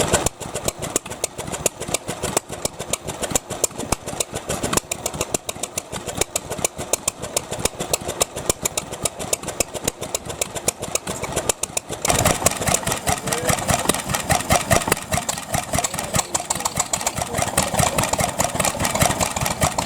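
Vintage stationary engines running, a fast, even train of firing beats. The sound changes abruptly about five seconds in and again about twelve seconds in, becoming louder after the second change.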